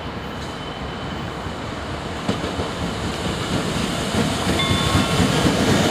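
Colas Rail Class 66 diesel-electric locomotive, running alone as a light engine, approaching through a station and growing steadily louder: engine rumble and wheel-on-rail noise, with a faint whine joining in over the second half.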